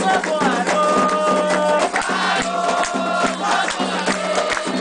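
Group singing of a Candomblé chant for Xangô, with voices holding long notes over fast drumming and rattles.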